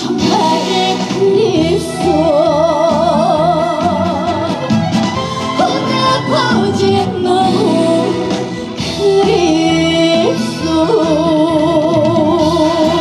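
A trot song performed live: a female voice sings with a wide, steady vibrato on held notes over band accompaniment.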